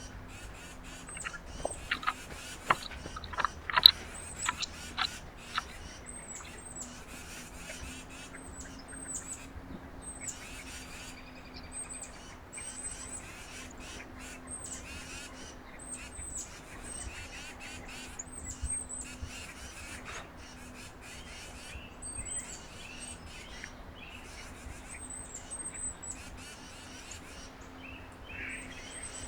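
Small birds chirping at a backyard feeder: short, high chirps repeat all through, with a few louder, sharper calls or knocks in the first several seconds and a faint steady hum underneath.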